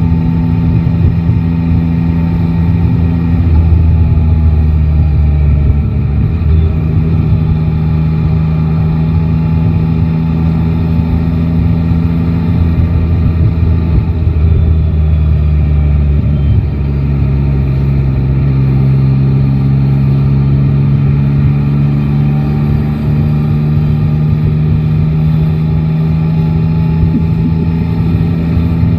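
Yamaha Tracer 9 GT motorcycle's three-cylinder engine running under way at steady revs, its pitch dipping a little over halfway through and then slowly rising again.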